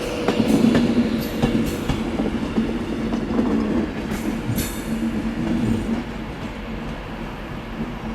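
Passenger train moving through the station at low speed: a steady running hum with wheels clicking over rail joints and points, and brief wheel squeals around the middle.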